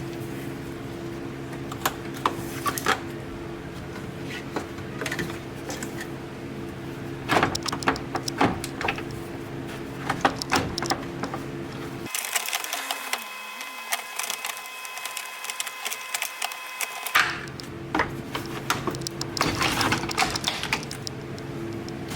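Irregular clicks and knocks of hand tools working on metal, over a steady low machine hum. The hum drops out for about five seconds in the middle.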